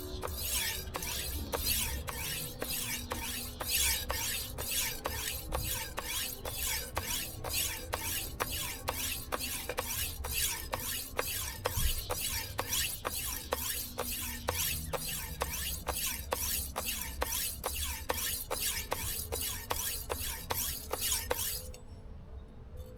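Knife blade stroked back and forth across a whetstone, a steady rhythm of about two gritty scraping strokes a second with a click at each turn, stopping about a second before the end. The strokes are at about three pounds of pressure and raise a burr on the edge.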